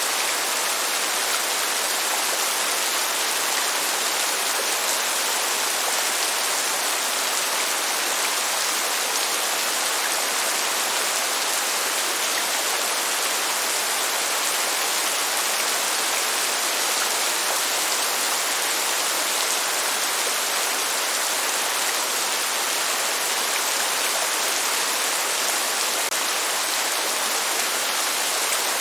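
Rain falling steadily: an even, unbroken hiss with no change in level.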